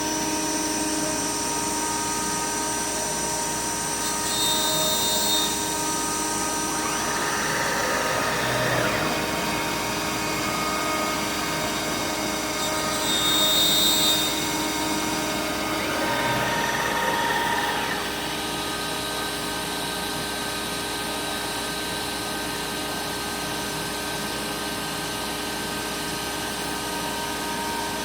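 CNC router spindle running with a steady whine as it mills aluminum composite panel, swelling with louder cutting noise four times before settling slightly quieter for the last third.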